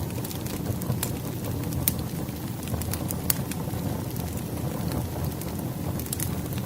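Burning firewood: a steady low rush with irregular sharp crackles and pops, a few each second.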